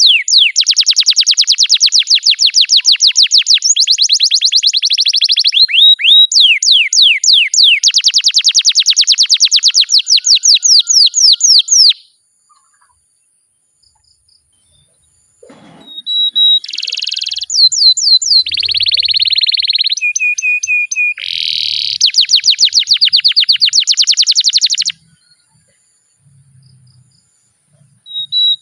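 Domestic canary singing long rolling trills: fast strings of high, falling notes, each run held for several seconds. The song breaks off for about three seconds near the middle, resumes with shorter, varied trill phrases, and pauses again near the end.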